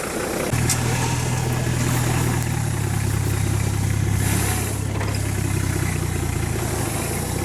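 Off-road 4x4's engine running steadily close by, starting about half a second in, its pitch shifting slightly about two and a half seconds in.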